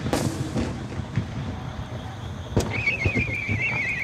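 Fireworks shells bursting: a sharp bang just after the start and another a little past halfway, with crackling between. From about three seconds in, a wavering high whistle from a whistle-tailed shell climbing, its pitch sinking slightly.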